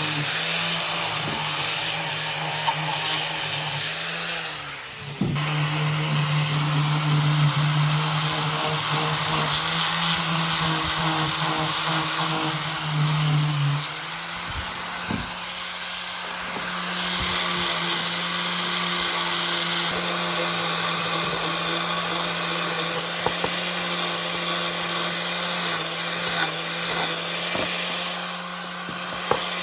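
An electric power tool running steadily on wood, a motor hum with a broad hiss over it. It cuts out briefly about five seconds in, and the hum shifts slightly higher about halfway through.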